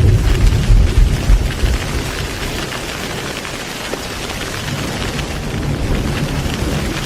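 Heavy rain falling steadily, with a low rumble of thunder that dies away in the first second or two.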